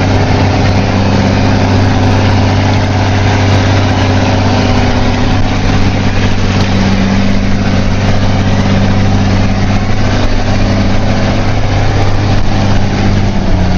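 Off-road truck engine running at a steady speed: a constant low drone with no revving.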